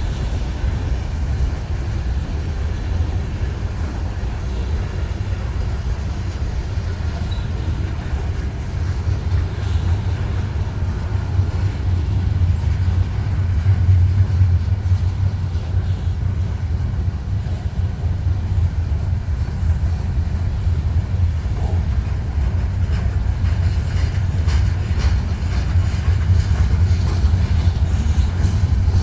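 Union Pacific freight train rolling slowly past, a steady low rumble with faint clicks from the wheels over the rails.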